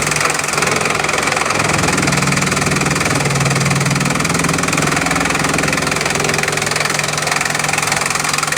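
Bamboo chipping machine running steadily: a loud mechanical noise over a low engine-like hum that wavers slightly in pitch.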